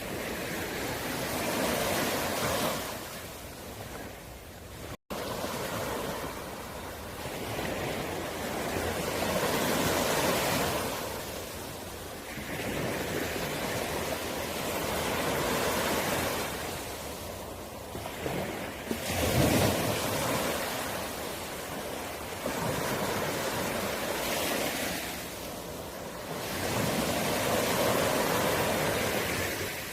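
Sea waves breaking and washing up a shore, the surf swelling and falling away every few seconds in a steady rush.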